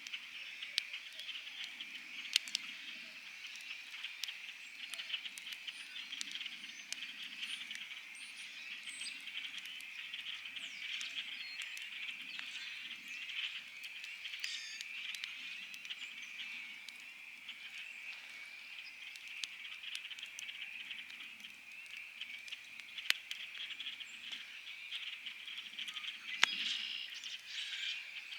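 A dense chorus of frogs trilling steadily, with the sharp pops of a crackling wood campfire a few times, loudest near the end.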